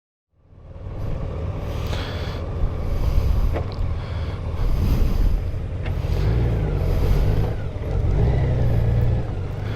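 Motorcycle riding along a road: engine rumble mixed with wind rushing over the action camera's microphone, fading in during the first second.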